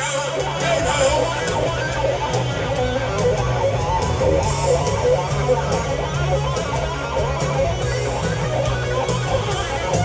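Rock band playing live, with electric guitar over a stepping bass line.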